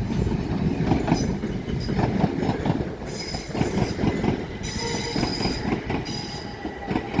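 Class 375 Electrostar electric multiple unit running slowly into the platform, with a steady rumble and knocking of wheels over rail joints. High-pitched wheel squeals come and go as it slows to a stop.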